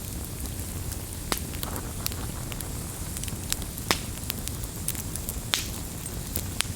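Wood campfire burning with a steady low rumble, crackling and popping in irregular sharp snaps, a few louder pops among them.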